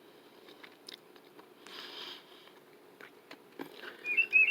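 Tufted titmouse singing a quick run of about three clear notes near the end, the loudest sound here. Before it, faint scattered taps and a brief crunching sound.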